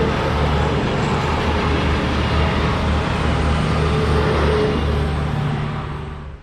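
Two coupled SA133 diesel railcars passing close by: a steady low engine drone over loud rushing wheel-and-rail noise, fading away over the last second or so.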